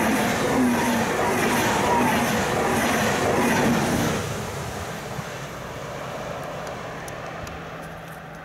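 ICE high-speed electric train passing at speed, with loud wheel-on-rail rushing. About four seconds in the last car goes by and the sound drops off, fading as the train recedes.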